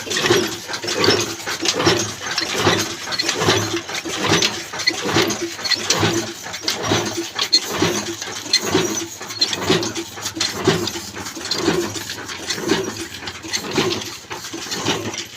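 Old black Ruston Hornsby diesel oil engine running steadily, with a regular beat of about two pulses a second and sharp mechanical clicking over it.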